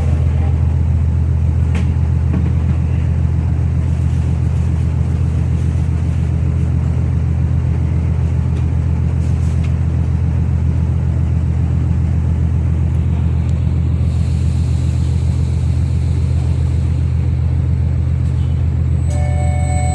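Ferry's diesel engines running with a steady, deep rumble while the ship berths. A set of steady ringing tones, like a chime, starts about a second before the end.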